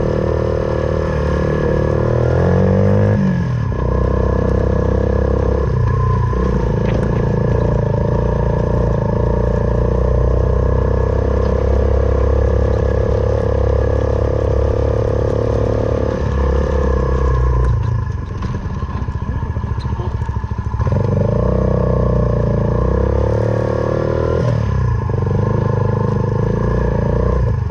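Suzuki Van Van 125's single-cylinder four-stroke engine, through an aftermarket full exhaust, running under way with the throttle held then eased off and reopened several times; the longest let-off comes about two-thirds of the way through.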